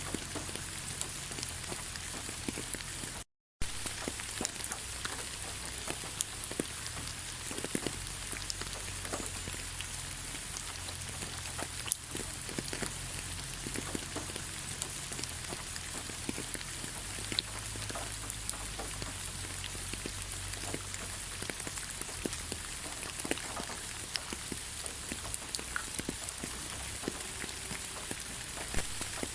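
Steady rain falling in a forest, a dense patter of individual drops. The sound cuts out completely for a split second about three seconds in.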